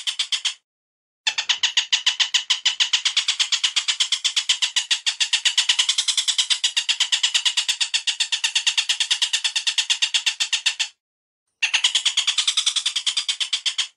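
Recorded bird call for song training: a rapid run of sharp, evenly repeated chattering notes. It cuts off abruptly twice and resumes after a pause of under a second.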